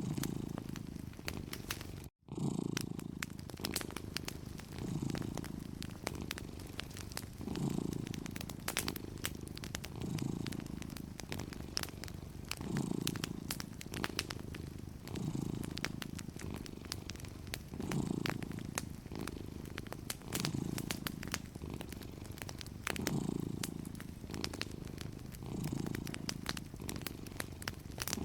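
Domestic cat purring steadily, swelling with each breath about every two and a half seconds, over the soft crackle of a wood fire. The sound cuts out for an instant about two seconds in.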